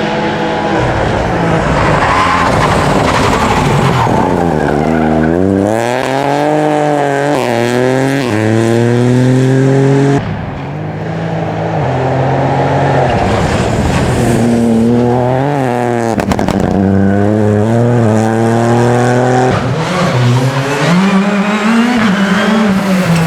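Rally car engines revving hard, pitch sweeping up and down again and again with gear changes and lifts, with some tyre skidding. The sound changes abruptly about ten seconds in, as if to a different car or spot.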